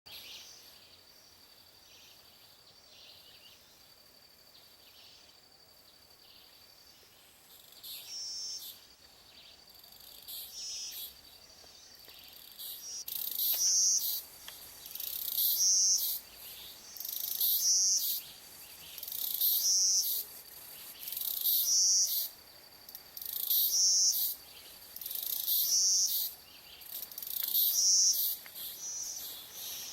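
Loud, high-pitched animal calls in bursts of about a second, coming more often from about 8 seconds in and then repeating regularly about every two seconds. Under them runs a steady thin insect trill.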